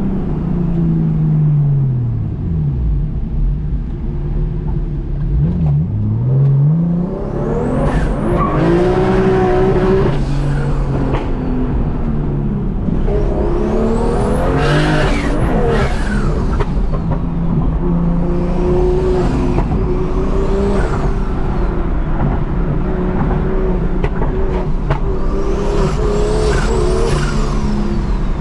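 Single-turbo BMW M2 Competition's straight-six engine, straight-piped, driven hard on the road: revs fall away, dip and pick up sharply around six seconds in, then climb and drop again repeatedly through the gears, with high rising whistles over the engine note during the pulls.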